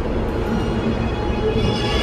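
New York City subway train rumbling through the station. A high-pitched squeal of several steady tones sets in about a second and a half in.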